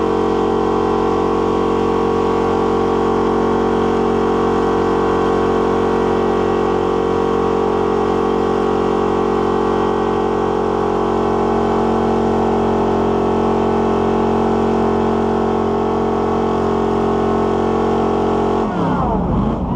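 Car engine held at steady high revs during a burnout, spinning the tyres. Near the end the revs fall away sharply.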